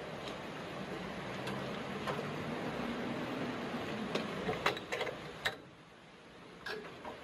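A machine running with a steady low hum, and a quick run of sharp clicks and knocks about four to five and a half seconds in, after which it quietens.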